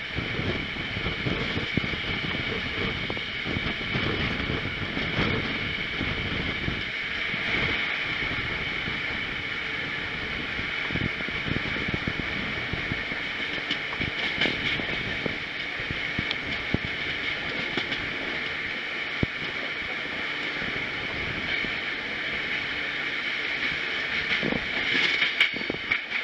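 Passenger train running along the track: a steady rumble and hiss of wheels on rails, with scattered knocks and rattles.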